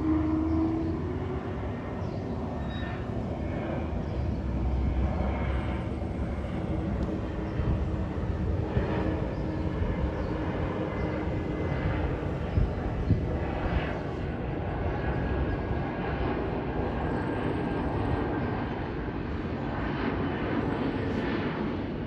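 Airbus A321neo's Pratt & Whitney geared turbofan engines running: a steady jet noise with a low hum, and a faint higher whine later on.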